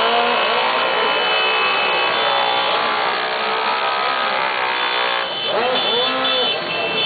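Several motorcycle engines running together as a group passes, with quick revs up and down near the end, over crowd voices.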